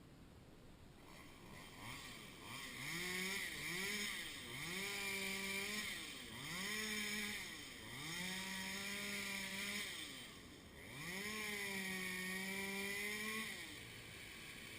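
Two-stroke chainsaw engine revved about six times. Each time it climbs to a high steady pitch, holds for one to two seconds, and drops back. Near the end it settles to a quieter idle.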